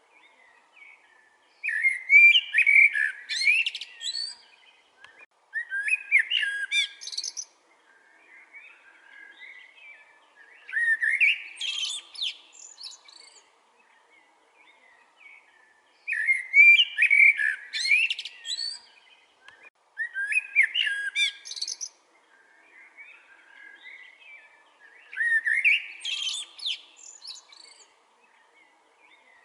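Common blackbird singing: six phrases of warbling song, each two to three seconds long, ending in higher twittering notes, with pauses of a few seconds between them.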